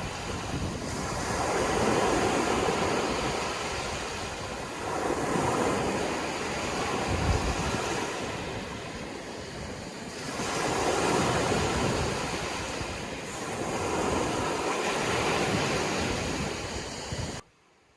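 Sea waves washing ashore, the surf swelling and ebbing every few seconds, with some wind on the microphone. The sound cuts off suddenly near the end.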